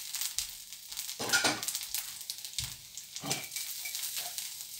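Dosa frying in butter on a hot griddle (tawa): a steady sizzle with crackling, and two louder scrapes about a second in and just after three seconds.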